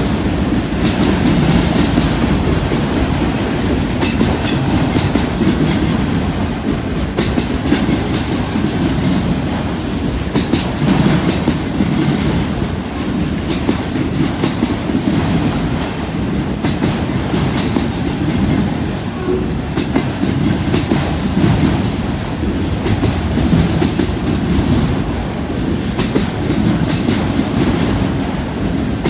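Autorack freight cars rolling slowly past on steel wheels: a continuous low rumble with irregular clicks and clacks as the wheels cross the track.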